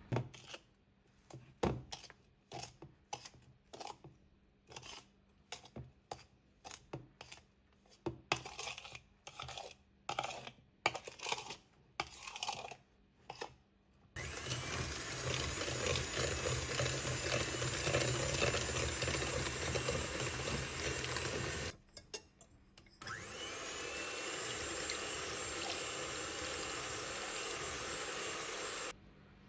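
A series of short knocks and clicks, then a small electric kitchen appliance motor running steadily in two runs of about seven and six seconds, the second one spinning up as it starts.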